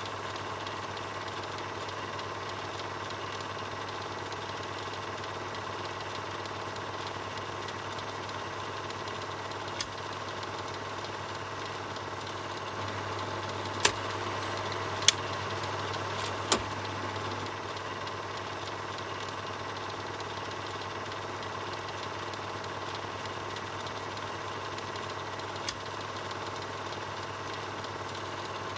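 Film projector running: a steady mechanical whir and clatter over a low hum, broken by a few sharp clicks, the loudest three close together about halfway through.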